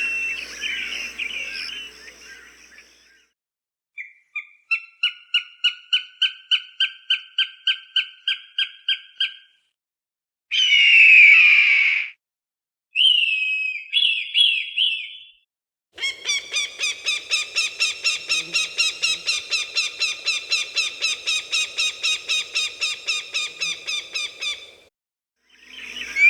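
Falcon calls in separate bursts with silent gaps between them. First comes a quick run of about twenty repeated sharp notes, then a single harsh scream, then two short cries. Last is a long fast series of repeated notes at about four or five a second.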